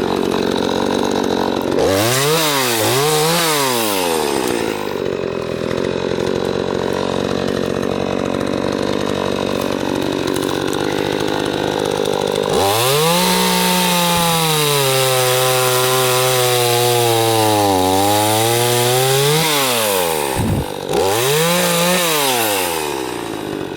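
Craftsman 42cc 18-inch two-stroke chainsaw running at speed and cutting through logs of about 6 to 8 inches. The throttle is blipped up and down a few times, and in a long cut past the middle the engine note sags under load and then climbs back without stalling.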